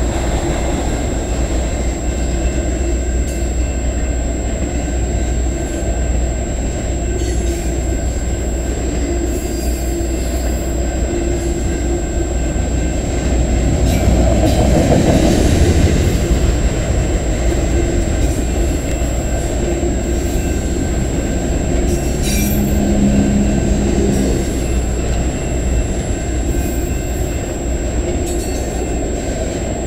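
CN freight train of autorack cars rolling past at a level crossing: a steady rumble of wheels on rail, with short high-pitched wheel squeals now and then, loudest about halfway through.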